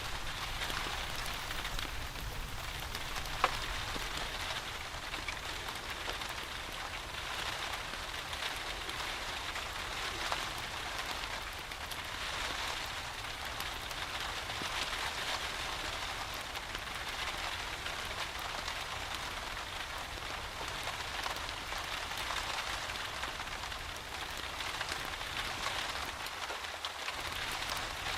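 Steady rain falling, an even hiss of drops, with two sharp clicks, one about three seconds in and a fainter one about ten seconds in.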